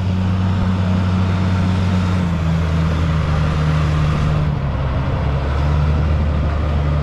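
Boat engine running steadily under load, its low hum stepping down slightly in pitch about two seconds in and again about four and a half seconds in.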